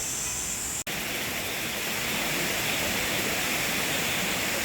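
Mountain valley stream rushing steadily, with a brief dropout just under a second in.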